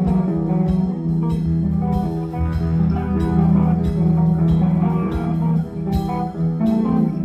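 Rock band playing live, with guitar, bass guitar and drum kit.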